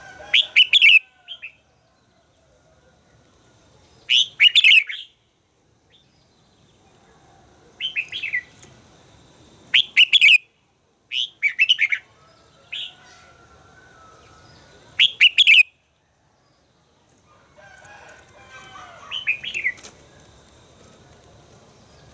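Red-whiskered bulbul singing: short, loud, bubbly phrases repeated about eight times with pauses of a second or more between them, and softer chatter just before the last phrase.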